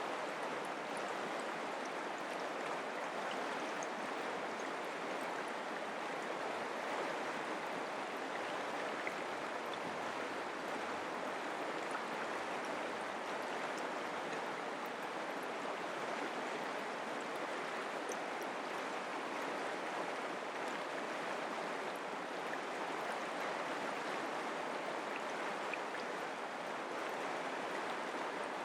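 Mountain creek flowing steadily: an even, continuous rush and babble of running water.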